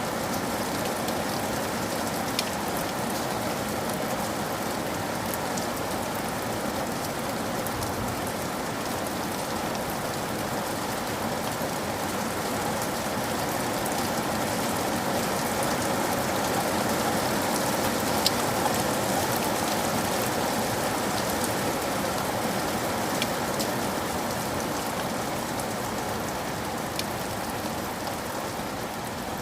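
Steady rain, an even hiss of falling water, with a few sharp ticks now and then.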